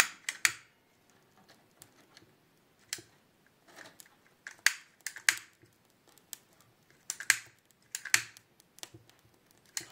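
A hand lighter clicked over and over, about ten sharp clicks at uneven intervals, while it is being worked to light the firelighter cubes in the stove.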